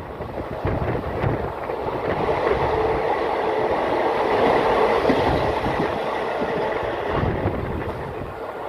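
Passenger train running on the rails, with wheels clattering over the track joints and a steady rumble that grows a little louder around the middle.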